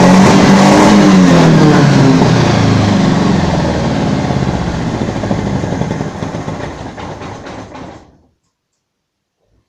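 VAZ-2109's rebuilt 1.8-litre eight-valve four-cylinder engine running after its repair. Its sound fades steadily over several seconds and cuts off abruptly about eight seconds in.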